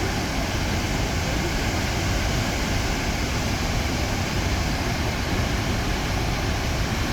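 Waterfall roaring: a steady rush of falling water with a deep rumble underneath, unchanging throughout.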